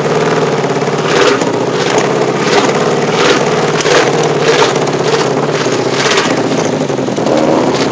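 A car in motion heard from inside the cabin: a steady hum with a regular knock about twice a second.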